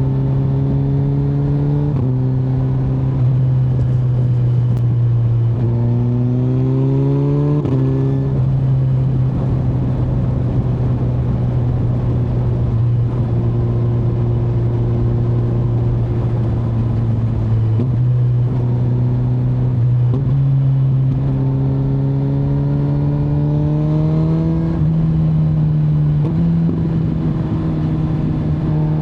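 Kawasaki Z900 inline-four motorcycle engine under way at fairly steady revs, with the pitch stepping several times as gears change; it climbs for a couple of seconds before shifts about eight seconds in and again near the end.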